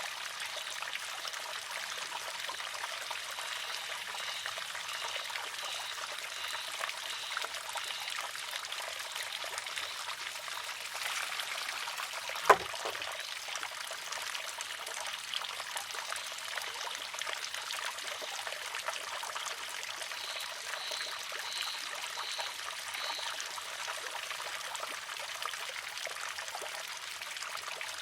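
Water trickling and pouring steadily into a wooden shishi-odoshi, with a single sharp clack about halfway through as the filled arm tips over and strikes its rock.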